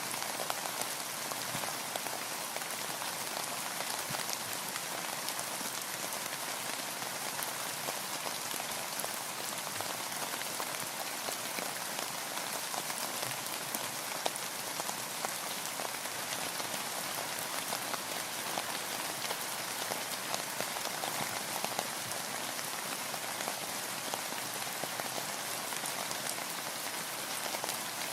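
Steady rain falling on a boat, a dense even patter of many small drop ticks.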